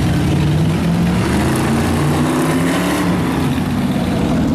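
Car engines running as cars drive slowly past, with one engine's pitch rising briefly about halfway through.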